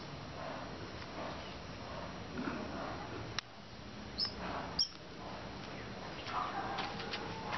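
Outdoor garden ambience with small birds chirping: two short high chirps about four and five seconds in, among fainter scattered animal calls. A sharp click about three and a half seconds in.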